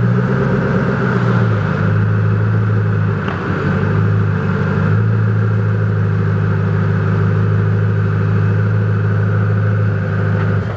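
Koenigsegg CCXR Trevita's twin-supercharged V8 idling at low speed, its pitch shifting slightly in the first few seconds and then holding steady, and cutting off near the end.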